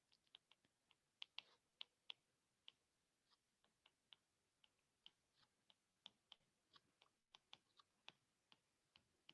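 Near silence broken by faint, irregular light clicks and taps, a few a second.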